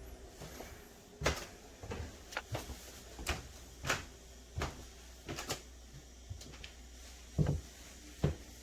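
A series of about a dozen irregular clicks and knocks, like objects being handled or set down, with two heavier, deeper knocks near the end.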